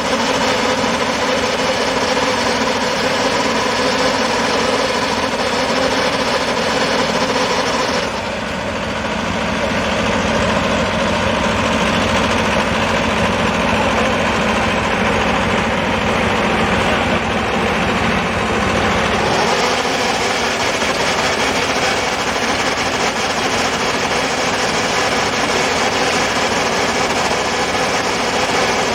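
Combine harvester engine running steadily, its sound changing abruptly about eight seconds in and again after about nineteen seconds.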